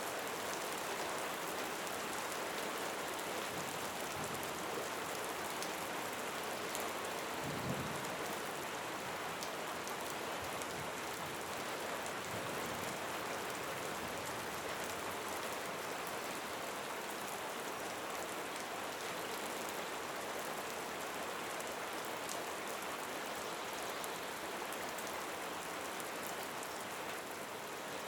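Steady rain falling, a continuous patter with many individual drops ticking, and one soft low thump about eight seconds in.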